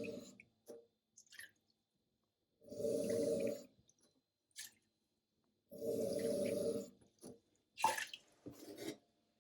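Water running in three short spurts of about a second each, a few seconds apart, followed by a few light clicks and knocks near the end.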